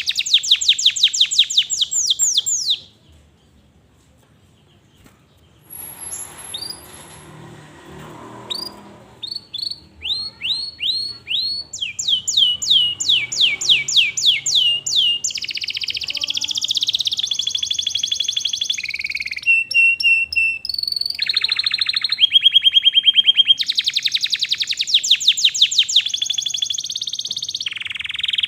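Canary singing loud, fast trills of rapidly repeated high notes in changing phrases. It breaks off for a couple of seconds about three seconds in, then resumes and keeps going.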